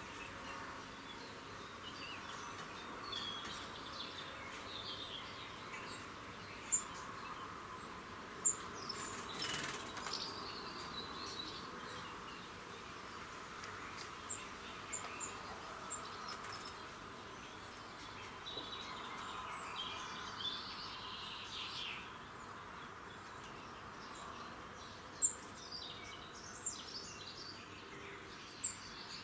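Early-morning birdsong: several birds chirping and calling at intervals, with short high peeps now and then, over a steady background hum of ambient noise.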